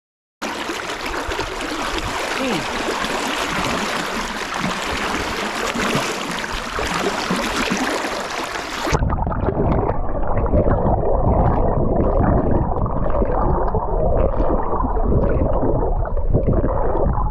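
Loud rushing, splashing water close to the microphone; about nine seconds in it abruptly turns muffled and deep, the sound of the microphone under water.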